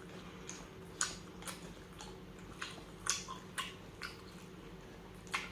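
Close-miked eating: chewing and mouth sounds, with a handful of sharp, irregular clicks and smacks.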